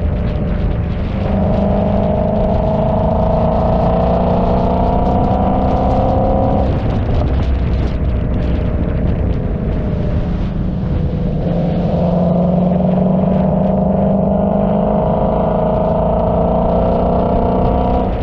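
Car engine accelerating under load, its pitch climbing slowly for about five seconds. It eases off about seven seconds in, then climbs again from about eleven seconds.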